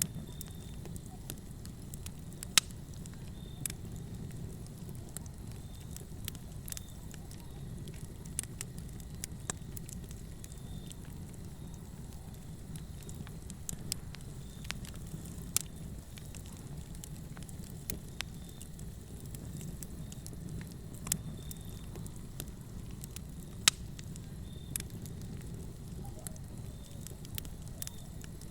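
Wood fire burning in a fireplace: a steady low rumble of flames with irregular sharp crackles and pops, two louder pops about two and a half seconds in and near the end.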